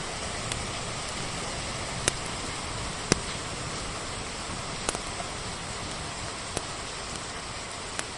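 Steady hiss of rain with a wood fire crackling over it: single sharp pops every second or two, the loudest about three seconds in.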